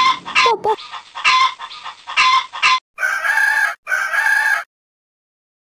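Chicken clucking in quick repeated calls, then two longer, brighter calls about three and four seconds in, cutting off suddenly.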